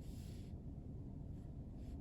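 Faint steady low room hum with two soft, hissy rustles, one at the start and one near the end.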